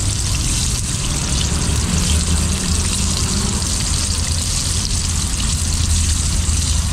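Fish frying in hot oil: a steady sizzling hiss, with a steady low hum underneath.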